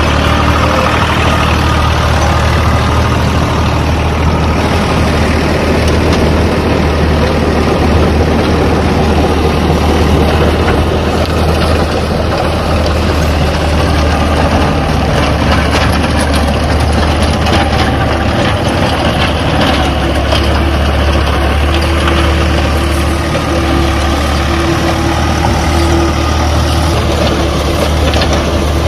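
Tractor engine running steadily while pulling a plough through dry ground.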